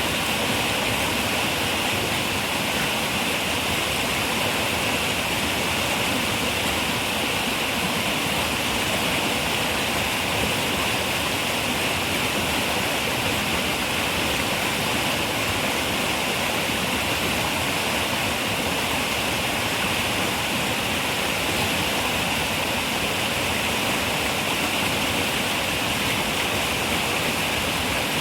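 River water running steadily over rocks, a continuous even rush with most of its weight in the upper-middle range.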